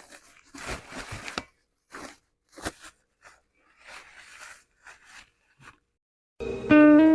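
A run of short crinkling and scraping handling noises, several in a row with pauses, as packing material is handled around boxed exhaust headers. About six seconds in, acoustic guitar music starts and is much louder.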